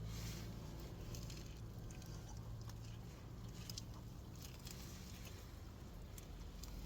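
A person biting into and chewing a soft sub sandwich: faint, scattered small clicks and squishy mouth sounds over a low steady hum.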